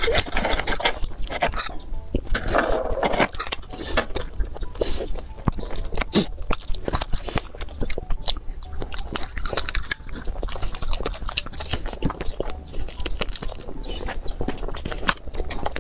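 Close-up eating sounds of spicy Chinese food: repeated biting and chewing with crunchy, wet clicks, one after another without pause.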